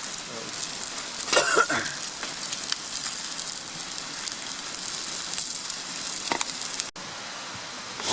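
Campfire crackling with a steady hiss and scattered pops. A brief voice comes about a second and a half in, and the sound drops abruptly about seven seconds in to a quieter hiss.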